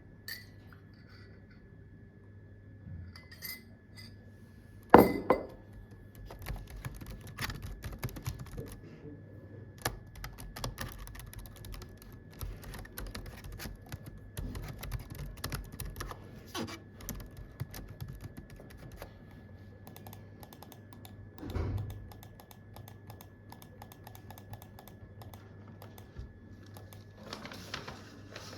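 Typing on a computer keyboard: a few scattered key taps, then a steady run of key clicks. A single louder knock comes about five seconds in, and a duller thump comes a little past two-thirds of the way through.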